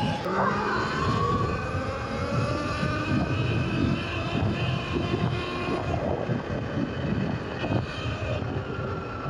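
Surron electric dirt bike's motor whining steadily while riding, over wind and rumble on the microphone.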